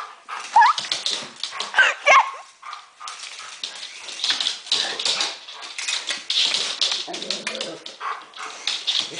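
A dog whining and yelping in short, rising cries about half a second and two seconds in, excited at a small toy helicopter hovering close, followed by a busy stretch of clicking and scuffling noises.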